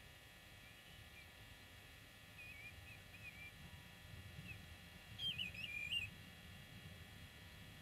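A bird calling: a few short wavering chirps, then a louder warbling phrase about five seconds in, over a faint low rumble.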